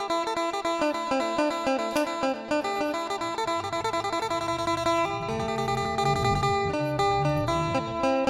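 Background music: an Isan phin, a plucked lute, playing a quick melody over a steady drone, with deeper bass notes joining about five seconds in.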